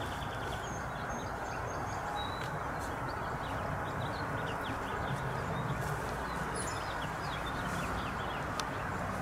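Small birds chirping, many short high calls and a few brief thin whistles, over a steady low rushing background noise.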